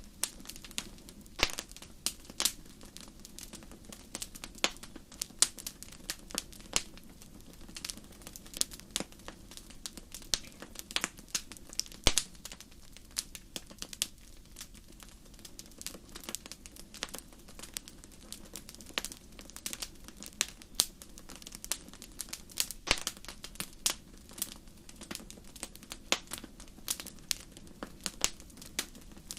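Wood fire in a fireplace crackling, with frequent irregular sharp pops and snaps over a low steady hiss.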